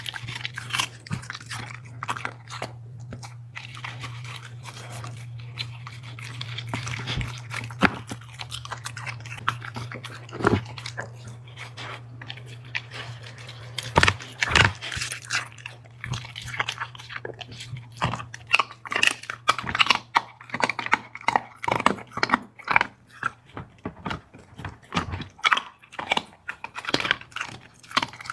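A dog chewing and crunching its food, with wet bites and crunches coming more thickly and rhythmically in the second half. A steady low hum runs underneath.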